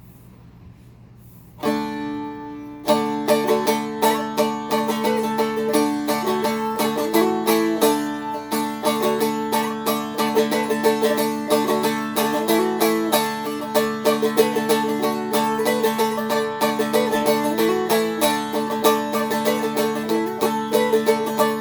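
Seagull Merlin M4, a small four-string fretted dulcimer-style instrument, played with full chords. One chord rings out about two seconds in, then a quick, steady strummed tune carries on over a droning note.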